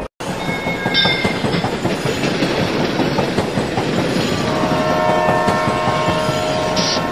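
Train running along the rails with a steady rumble and rapid clatter of wheels, cutting in after a brief break at the very start. A train horn sounds a held chord from about halfway in.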